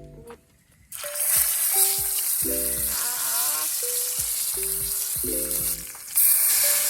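Food sizzling hard in a hot pan, starting suddenly about a second in and growing louder near the end, as when food is first laid on the hot metal.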